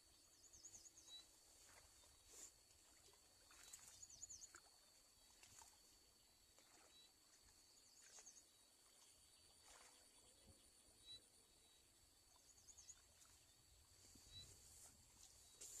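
Near silence outdoors: a faint steady high-pitched whine, with short high chirps every few seconds and a few soft knocks.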